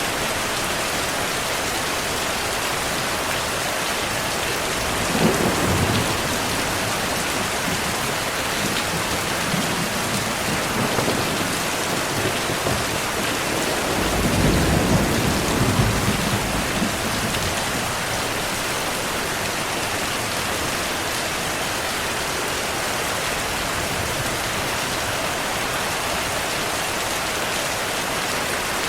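Steady heavy rainfall hissing, with rolls of thunder rumbling through it: one about five seconds in, a fainter one around eleven seconds, and a longer, louder rumble at about fourteen to seventeen seconds.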